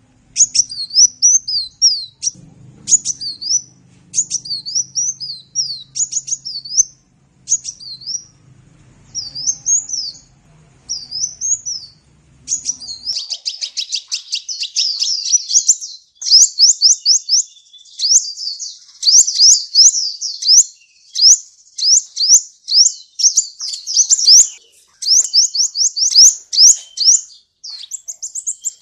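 Sunbird (kolibri) singing in high chirps: short separate phrases at first, then, about halfway, a fast dense run of quick rising notes that goes on without a break.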